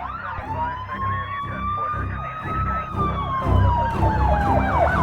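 Sirens: one long wail that rises slowly and then falls, overlaid with fast, repeated yelping sweeps and a low rumble underneath. It gets louder about three seconds in.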